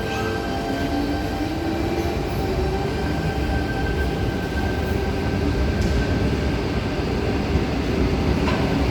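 Tangara electric suburban train pulling out of the station. Its traction motors whine in a tone that rises slowly over the first few seconds as it gathers speed, over a steady rumble of wheels on rail.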